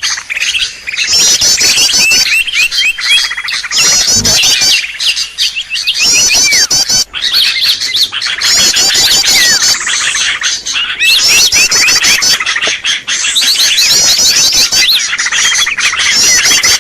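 Bird-lure recording of small birds calling continuously: loud, dense rapid chirping, with a high fast chattering trill repeating every few seconds.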